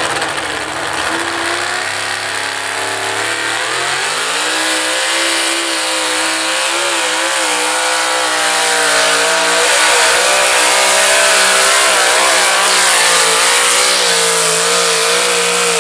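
A pulling truck's engine at full throttle dragging the sled: the revs climb over the first four seconds or so, then hold high with a wavering pitch, and the engine note stops abruptly at the end.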